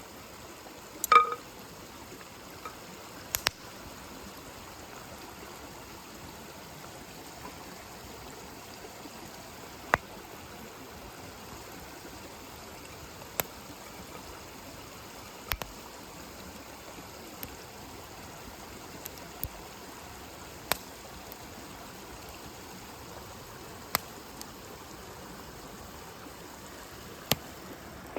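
Wood campfire burning: a steady low hiss with sharp crackling pops every few seconds, the loudest about a second in.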